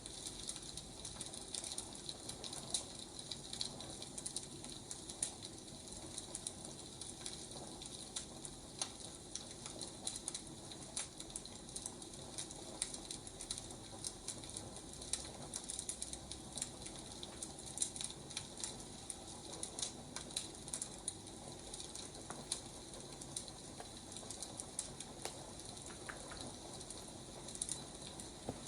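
Wood fire crackling steadily, with irregular sharp pops and snaps over a soft hiss.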